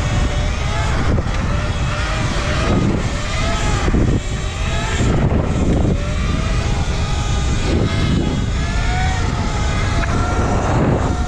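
Wind rumbling over the microphone while riding a Sur-Ron electric dirt bike, with the motor's whine rising and falling again and again as the throttle opens and closes.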